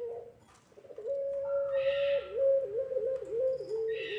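Puter pelung dove (long-voiced domestic turtle dove) cooing. A short coo comes at the start, then from about a second in one long, drawn-out coo is held on a steady pitch. It then wavers in several quick dips before settling lower near the end.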